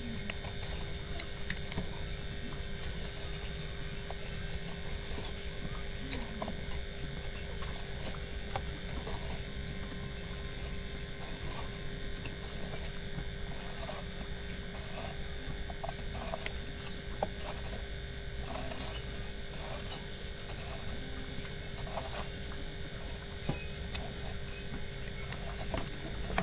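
Steady background hum with scattered light plastic clicks and taps as the drain pump filter of an Electrolux front-load washing machine is handled and unscrewed from its housing.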